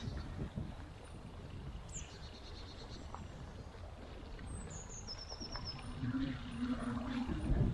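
Small woodland birds calling: thin high notes that slide down, and short rapid trills, several times over. Under them runs a steady low rumble of a bicycle rolling along a woodland path, with a low hum near the end.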